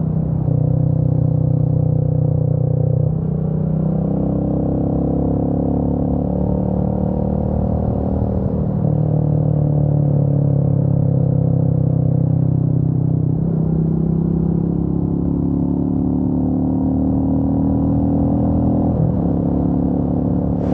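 Royal Enfield Meteor 350's single-cylinder 349 cc engine running on the road, heard from the rider's position. Its note steps up and down several times as the engine speed changes.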